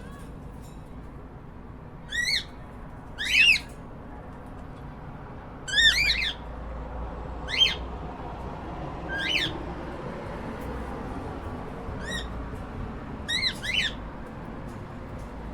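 Cockatiels calling: short, sharp whistled chirps, about seven spread through the span, some in quick doubles, over a steady low background hum.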